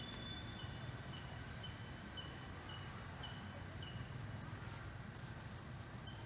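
Forest ambience: a short high chirp repeating about twice a second, pausing for a couple of seconds near the end, over a faint steady high-pitched drone and a low hum.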